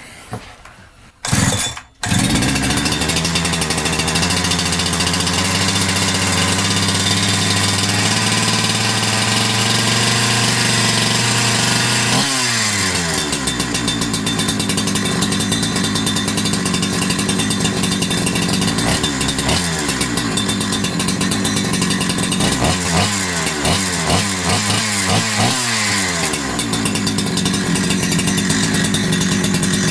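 Holzfforma G372XP chainsaw, a two-stroke Husqvarna 372XP clone, started with a brief pull about a second in and catching at about two seconds, then running steadily. From about halfway the engine speed drops and rises several times. It keeps running on a new carburetor with freshly set low and high mixture screws.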